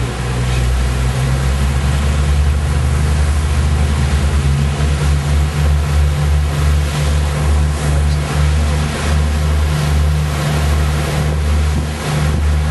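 Loud, steady low rumble aboard a yacht under way, its deepest part pulsing unevenly.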